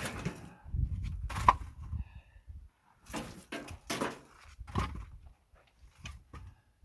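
Irregular knocks and scrapes, the sharpest about one and a half seconds in and a cluster around three to four seconds in, over a low rumble that stops partway through.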